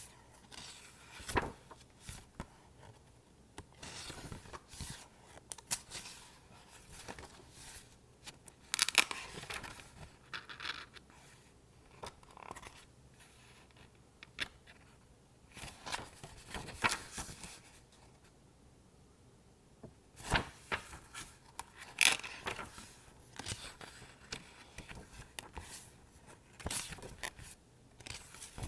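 A book being handled close up: pages flipping and its surfaces scratched and tapped, in irregular papery rustles and brushing strokes broken by sharp little clicks.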